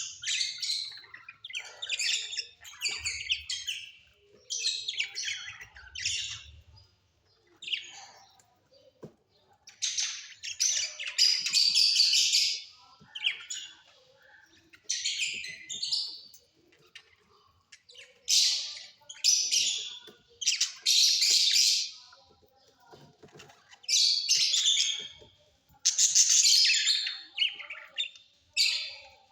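Pet parrots chirping and squawking in quick, harsh bursts with short pauses between, the longest runs of calls lasting a couple of seconds.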